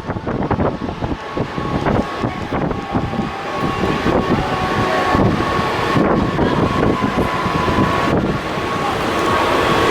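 Running noise of a moving suburban electric train, with a thin steady whine over the rumble and wind buffeting the microphone.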